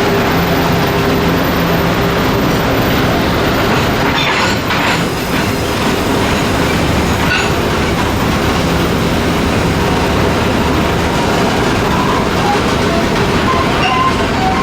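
A train passing through the station at close range: a steady rumble of wheels on the rails with clickety-clack over the rail joints.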